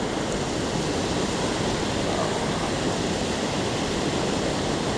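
Steady rush of water from a waterfall on a trout stream.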